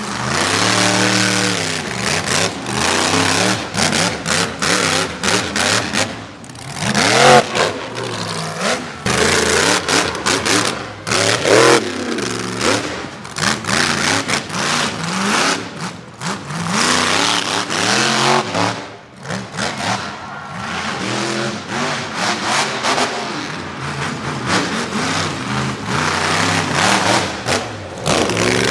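Monster truck engine revving hard and then backing off, again and again, its pitch rising and falling, with many sudden brief cuts in the sound.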